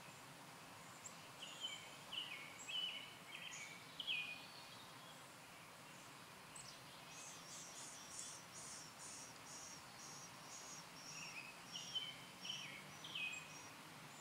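Small birds chirping: two spells of short, quick mid-pitched chirps, and between them a run of high, thin notes repeated two or three times a second, over a faint steady hiss.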